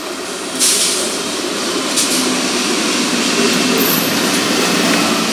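Electric multiple unit local train running past on the rails, its wheel and rail noise growing louder as the carriages pass close by. There is a sudden rise in loudness about half a second in.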